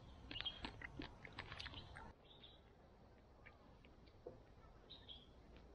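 Near silence: faint outdoor ambience with a few scattered faint bird chirps.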